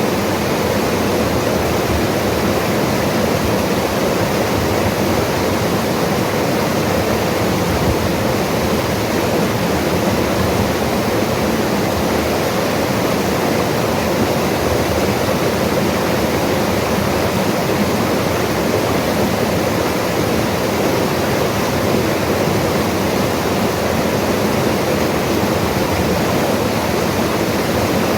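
Mountain river rushing, a steady, loud, even roar of flowing water over rocks.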